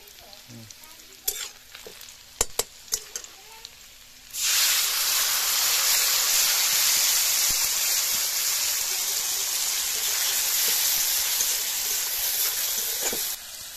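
Onions frying in oil in an iron kadai, with a few sharp clicks of the metal spatula against the pan. About four seconds in, a spice paste of garlic, ginger, mustard, turmeric and chilli goes into the hot oil and a loud steady sizzle starts as it is stirred. The sizzle cuts off near the end.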